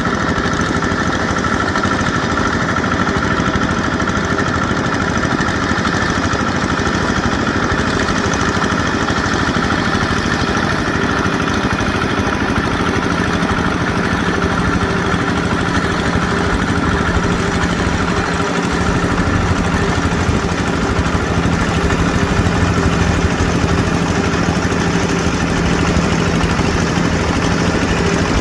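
Yanmar EF725T tractor's diesel engine running steadily, growing slightly louder in the second half.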